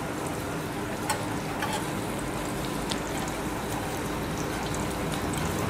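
Moong dal malpua frying in hot oil in a pan: a steady sizzle with a few faint crackles.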